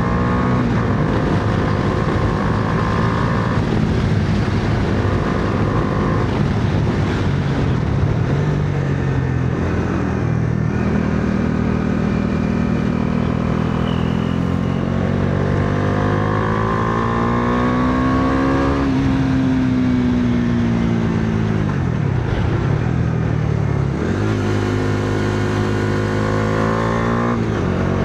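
Bajaj Dominar 400's single-cylinder engine under hard riding, the revs climbing and falling over and over through gear changes and off-throttle. Past the middle the revs rise in one long climb, then fall away as the throttle is eased, and they climb again near the end.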